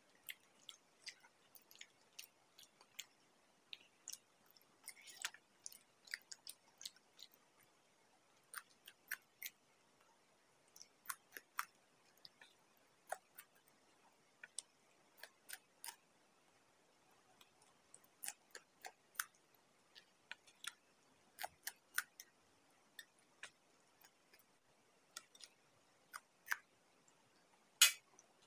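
Close-miked eating sounds: chewing and crunching of fried samosas and raw green chillies, as many short, sharp, irregular crunches and mouth clicks, with one louder crunch near the end.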